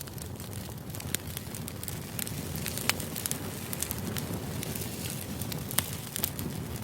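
Crackling fire ambience used as background white noise: a steady low rush with many small irregular crackles and a few louder pops.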